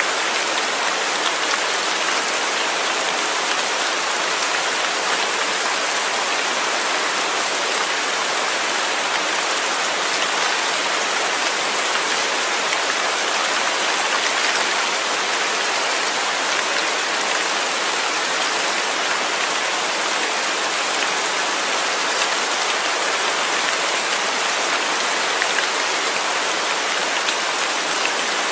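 Steady rain falling, an even hiss of drops with faint individual drop ticks, unchanging throughout.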